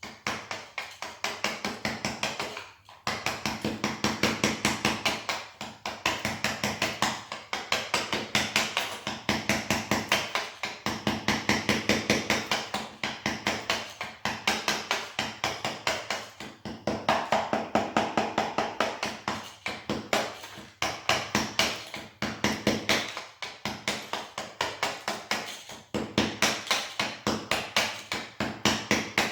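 Hammer striking rapidly, about five blows a second with a few brief pauses, chipping old material off the floor bed where a broken tile has been removed.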